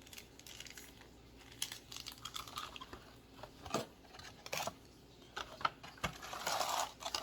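Toy packaging being handled: light crinkling and rustling with scattered small clicks and taps, a longer rustle near the end.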